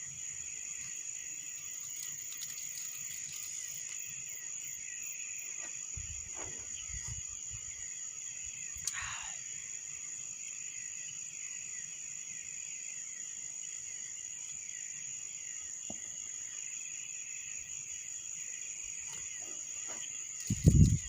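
Night insects, crickets, trilling steadily at a high pitch. There is a brief falling whistle about nine seconds in, and a loud low rumbling buffet near the end.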